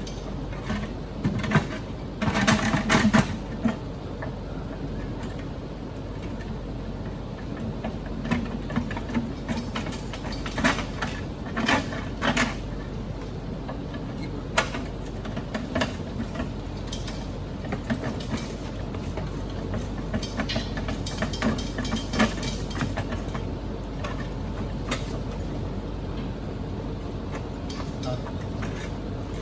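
Scattered metallic clanks and knocks of tools and parts being worked on an engine and transmission, over a steady low hum. The knocks bunch together about two seconds in and again near the middle.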